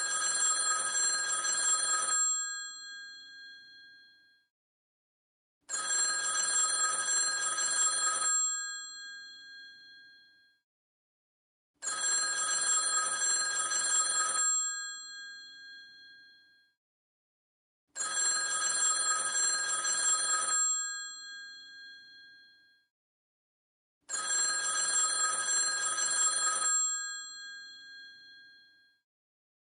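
Old telephone's bell ringing in the usual cadence: five rings about six seconds apart, each a ringing burst of about two and a half seconds that fades away after it stops.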